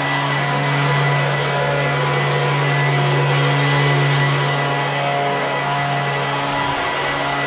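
Honda walk-behind lawn mower engine running steadily at constant speed, with an even low hum.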